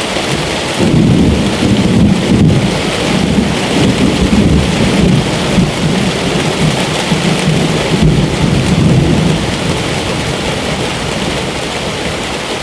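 Steady heavy rainfall, with a long low roll of thunder rumbling in about a second in and dying away after about eight seconds.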